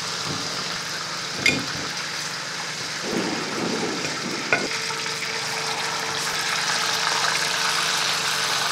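Chicken pieces frying in hot ghee in a steel pot, a steady sizzle that grows slightly louder in the second half, with two short clicks of a metal spoon.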